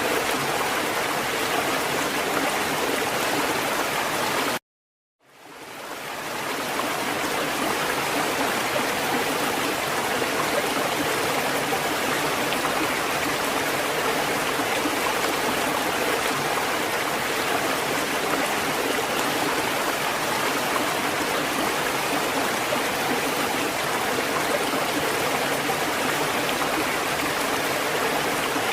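Steady rushing water, an even continuous wash with no swell of breaking waves. About four and a half seconds in it cuts out to silence for half a second, then fades back up.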